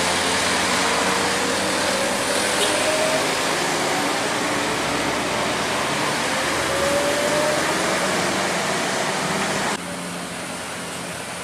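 Heavy truck engine running under load, its pitch slowly rising, over a steady rush of road noise. The sound drops abruptly near the end.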